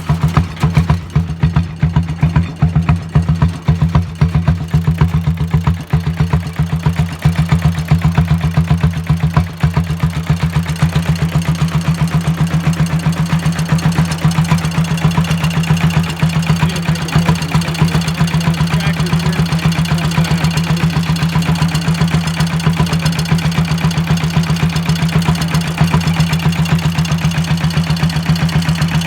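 Straight-piped single-cylinder diesel in a Bolens G-12 garden tractor running at idle, with a rapid, loud chuffing beat from the open exhaust. It runs a little unevenly for the first ten seconds or so after a cold start, then settles into a steady beat.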